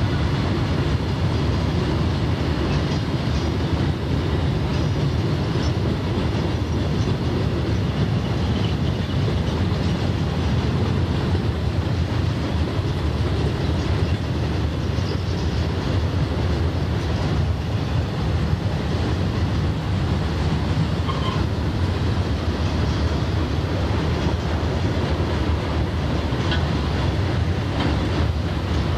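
Conrail freight train of open-top hopper cars rolling past, a steady rumble of steel wheels on the rails with no change in level.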